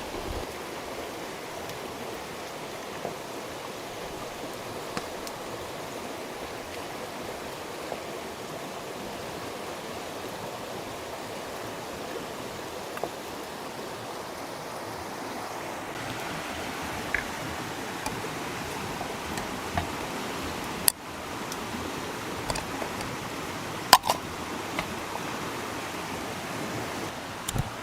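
Steady rush of running water, like a rainforest stream, with scattered sharp clicks and knocks over it. The loudest knocks come about 21 and 24 seconds in.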